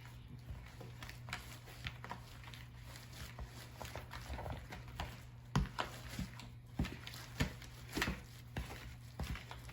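Spoon stirring a stiff salt dough of flour, salt, water and oil in a bowl: irregular knocks and scrapes against the bowl, with several sharper knocks in the second half.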